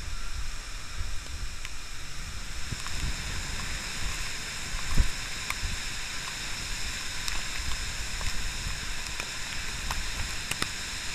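Heavy tropical-storm rain pouring down in a steady hiss, with gusting wind rumbling on the microphone and scattered sharp ticks of drops striking close by. There is one louder thump about five seconds in.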